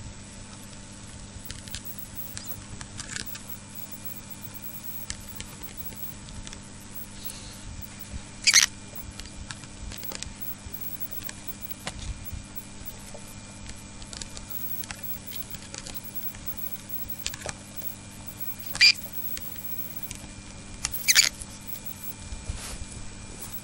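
Cockatiel giving a few short, sharp calls: one about eight seconds in, another near nineteen seconds, and a quick pair just after twenty-one seconds, with small scratchy clicks between them.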